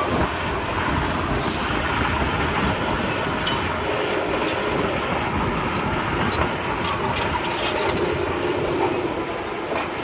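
Komatsu D31P crawler bulldozer running under load, its diesel engine a steady noise with scattered sharp clanks from the steel tracks.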